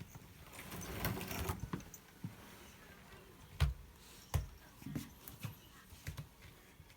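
A house cat raking its claws on a scratching surface: a rasping scratch about a second in, followed by several short, soft knocks and scrapes.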